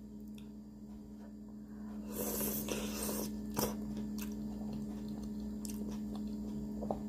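Close-miked eating sounds: a person biting and chewing food, with a brief noisy burst about two seconds in and a sharp click shortly after, over a steady electrical hum.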